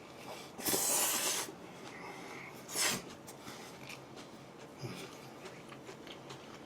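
Eating noises from a person chewing a kebab sandwich: a noisy breath through the nose about a second in, a shorter one near three seconds, and faint mouth clicks and chewing.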